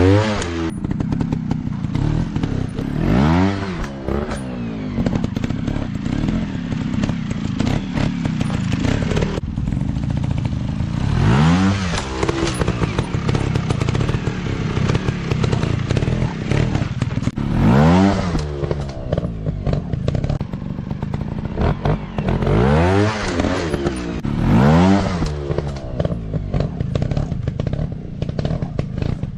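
Dirt bike engines revving in repeated bursts, pitch rising and falling about six times, over a steady running engine.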